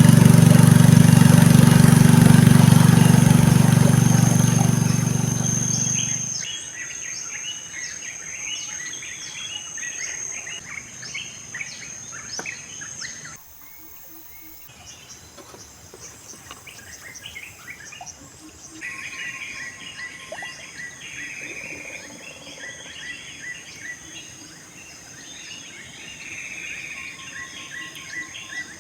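Tropical riverside forest ambience: many birds chirping, over a steady high insect drone. It is preceded by a loud low hum that fades out over the first six seconds.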